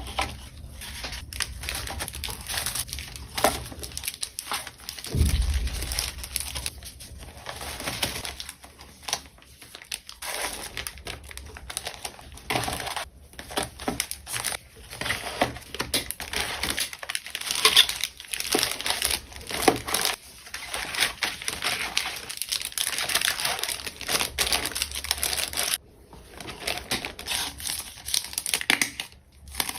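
Plastic packaging crinkling and rustling as an order is packed by hand, with scattered sharp clicks and taps throughout.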